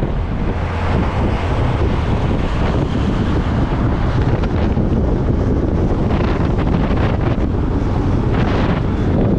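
Wind buffeting the microphone of a GoPro on a moving motorcycle: a loud, steady low rush of wind noise that masks the engine and road sound.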